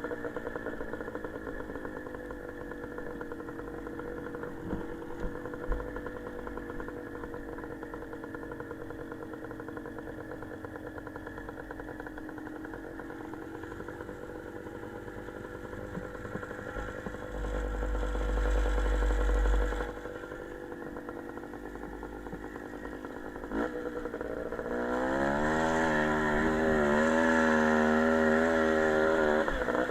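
Small motorcycle engine running steadily, then revving up about three-quarters of the way in and holding at higher, wavering revs near the end. A brief low rumble sounds a little past the middle.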